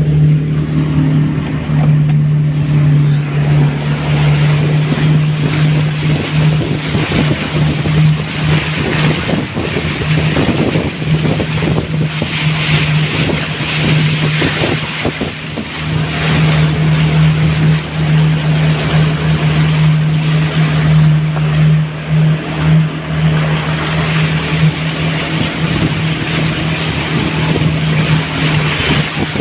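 Engine running with a steady hum, under a rushing noise of wind on the microphone that swells about halfway through.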